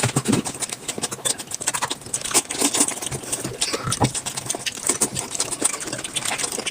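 Mealtime eating sounds: chewing, and irregular quick clicks and taps of utensils against dishes.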